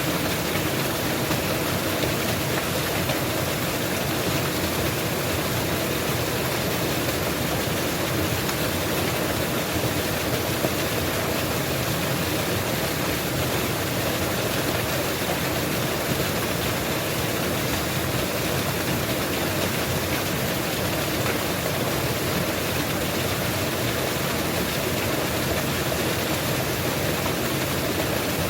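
Mountain waterfall: falling water making a steady, unbroken rush with no change in level.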